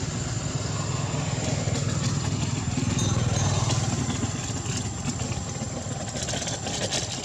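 An engine running steadily at idle, a continuous low hum, with a thin steady high-pitched whine over it.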